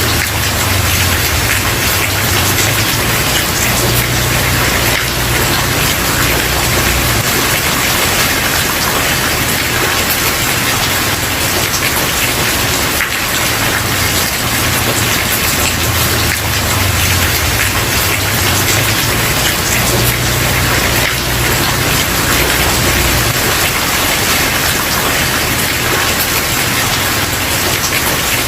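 Steady rain falling on a wooden porch, with a low rumble that comes and goes underneath.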